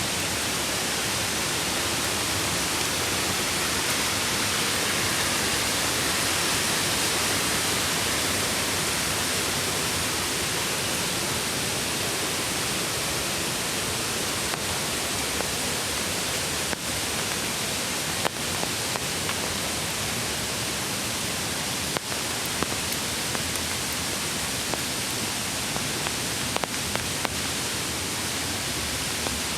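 Mountain creek water rushing steadily, with a few faint clicks or taps in the second half.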